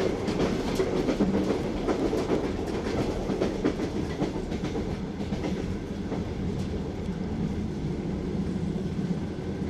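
Train running steadily over the rails: a continuous low rumble of the carriages with the clickety-clack of wheels knocking over rail joints.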